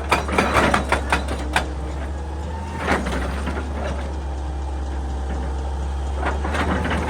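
Excavator's diesel engine running steadily with a low hum, with a quick run of sharp knocks and clanks in the first second and a half, another about three seconds in, and more near the end.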